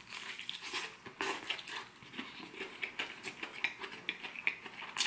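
Close-up eating sounds of crispy breaded fried chicken: a bite into the crust followed by irregular crackly crunching as it is chewed.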